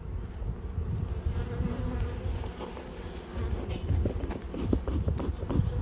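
Honeybee colony buzzing steadily in an open hive, with a low rumble underneath and a few light knocks in the second half.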